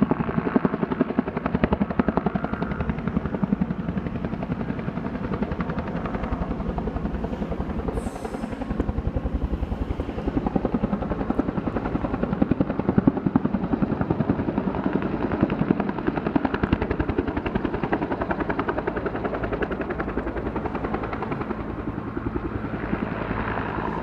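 Logging helicopter in flight with its load of logs, the rotor blades chopping in a fast, steady beat.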